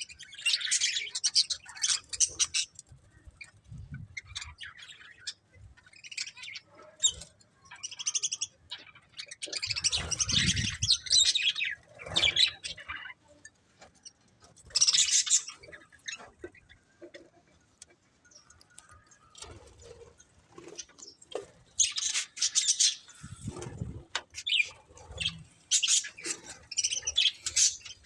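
Budgerigars chirping in short, scattered bursts of high chatter, with a few low thuds in between.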